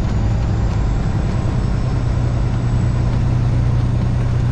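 Semi truck's diesel engine running steadily, a low even hum with road and cab noise above it.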